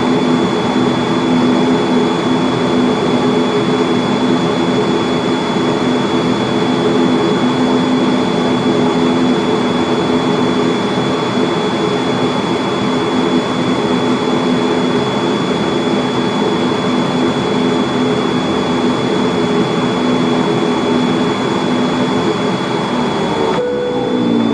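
Pratt & Whitney PW127M turboprop engines of an ATR42-600 running steadily at idle on the stand, with a steady high whine over the propeller drone. Near the end the tones slide down in pitch as an engine is shut down and winds down.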